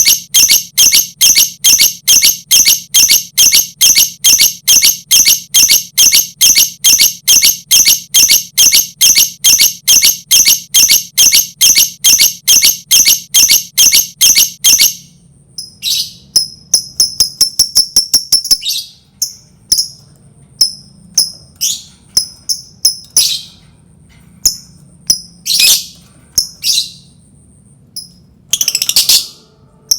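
Lovebird ngekek: a long, even run of shrill, chattering notes, about three or four a second, lasting some fifteen seconds. It breaks into a fast trill and then scattered sharp chirps.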